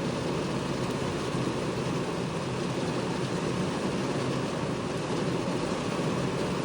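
Heavy rain falling in strong wind: a steady, unbroken noise with a low rumble beneath it.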